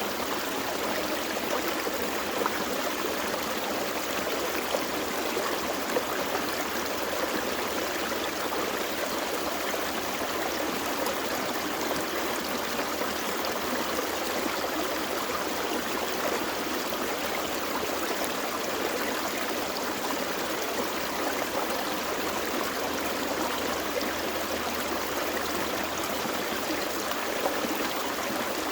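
A gentle forest creek flowing: a steady rush of water with small trickles and splashes over stones.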